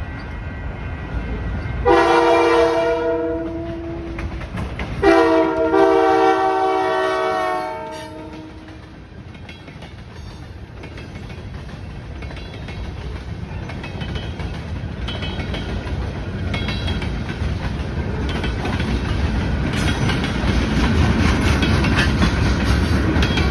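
Freight train locomotive horn sounding two blasts, a short one about 2 s in and a longer one about 5 s in. Then the freight cars roll through the grade crossing, wheels clacking over the rail joints, the rumble growing louder toward the end.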